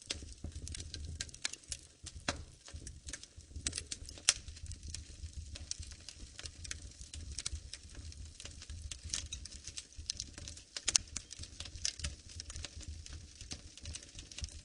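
Wood fire crackling in a fireplace: irregular snaps and pops over a low rumble, with two sharper pops, one about four seconds in and one near eleven seconds.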